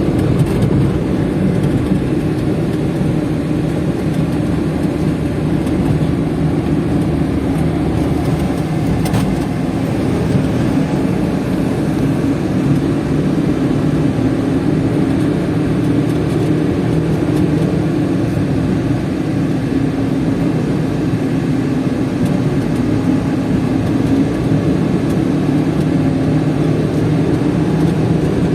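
A small vehicle driving steadily: engine and road noise that hold an even level throughout, most likely the Suzuki DA17V mini truck on the move.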